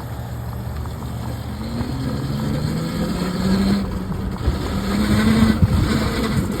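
Electric dirt bike's motor whining, rising in pitch from about two seconds in as the bike speeds up, over a low rumble. A few knocks come near the end as the bike bumps over rough ground.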